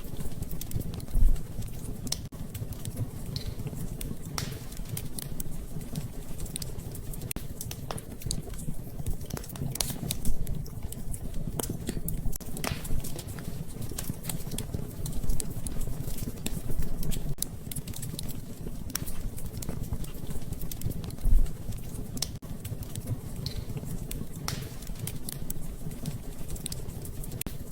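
Wood fire crackling in a fireplace, with irregular sharp pops over a steady low rush, and gentle rain patter mixed in.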